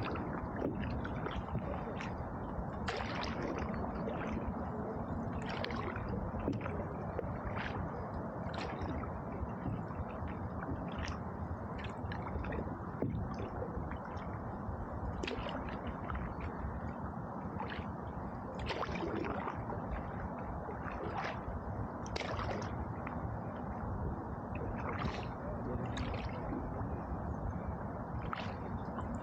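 Canoe paddle strokes dipping and splashing in river water, roughly one stroke a second, over a steady low rushing noise.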